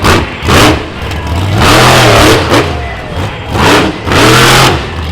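Monster truck engine revving hard in a series of bursts, pitch climbing and falling back each time. There are short blips and a couple of longer revs held for over half a second.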